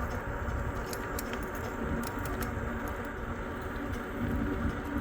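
E-bike riding along a paved trail: steady low riding noise of tyres and air on the microphone, with light, scattered rattling clicks from the bike.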